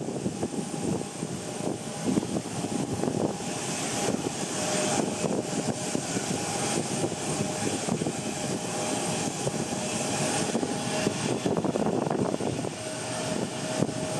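Jet airliner engines running with a steady whine, under heavy gusting wind noise on the microphone.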